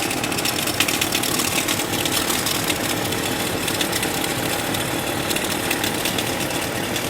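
Idling engine of a 1998 Chevrolet Cheyenne K2500 pickup, heard under the hood, with a steady noise that the mechanic traces to the alternator and takes as a sign that something inside it is going.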